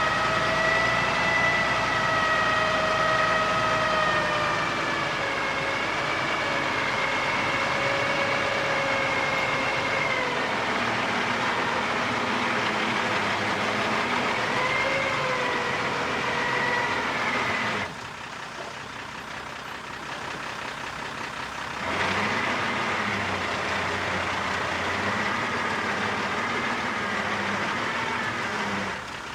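Diesel engine of heavy earth-moving machinery running hard, with a high whine that rises and falls in pitch. The sound drops away suddenly about two-thirds of the way through and comes back a few seconds later.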